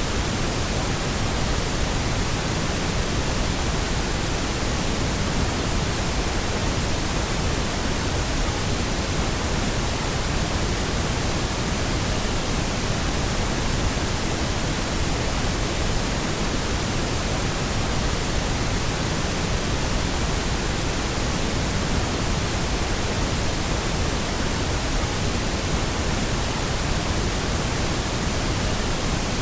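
Pink noise: an even, unchanging hiss, fuller in the low end than white noise.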